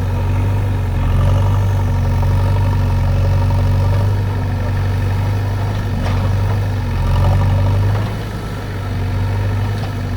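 Diesel engine running steadily at idle, a low even hum that dips briefly about eight seconds in.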